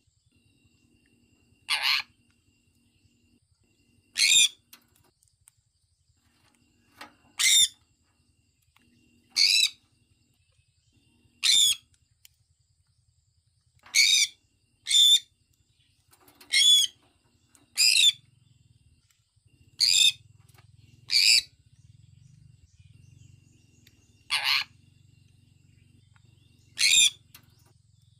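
Sun conure giving short, high-pitched chirping calls, one every couple of seconds, about a dozen in all.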